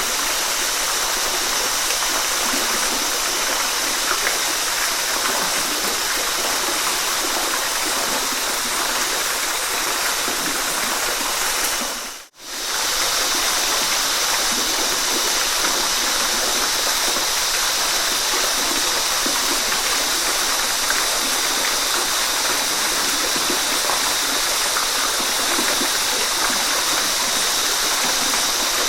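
Waterfall: a steady rush of falling water. About twelve seconds in it briefly fades out almost to silence and comes straight back.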